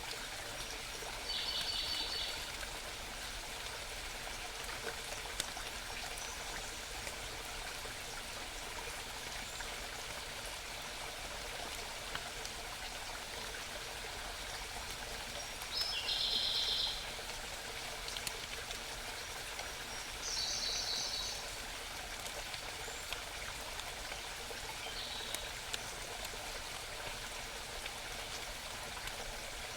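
Steady babbling of a small mountain stream. Over it, a small songbird gives short, high, rapid trills of about a second each: about 1.5 s in, around 16 s and 20 s, and faintly near 25 s.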